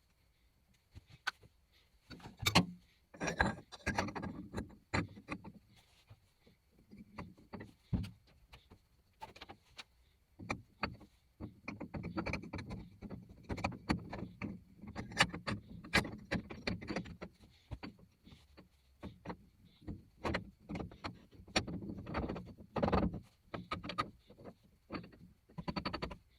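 Irregular knocks, clunks and rattles of hard objects being handled and moved about, with no motor running.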